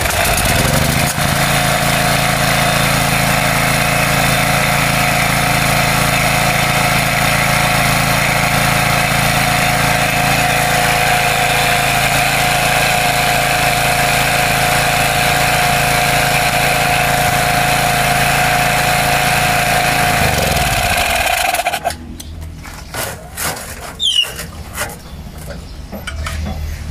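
Small generator engine catching and running at a steady speed for about twenty seconds, then shut off: its pitch drops as it winds down to a stop. A few clicks and knocks follow.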